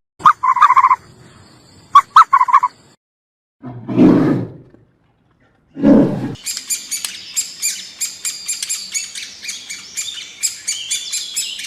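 A series of separate animal calls: two short pitched calls with sharp clicks between them, then two low, rough sounds. From about halfway through, a bird chirps rapidly, about five high chirps a second, until the end.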